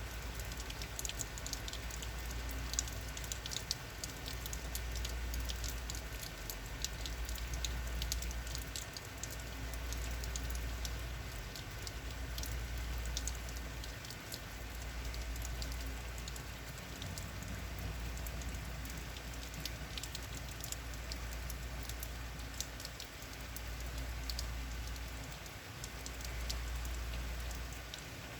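Heavy rain falling and pattering, with many separate drops ticking on hard surfaces, over a low rumble that swells and eases every few seconds.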